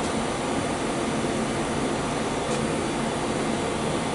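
Steady rushing noise of a fan running, with a faint click about two and a half seconds in.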